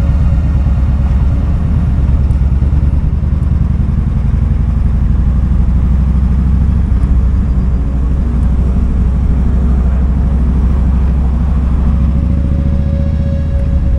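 Kawasaki Vulcan 2000's big V-twin engine running steadily, with no revving, as the motorcycle is ridden in traffic. A faint steady whine joins near the end.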